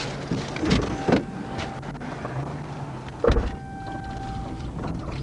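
Steady low hum of an idling vehicle, broken by sharp clunks about one second in and again about three seconds in, with a thin steady tone of about a second after the last clunk.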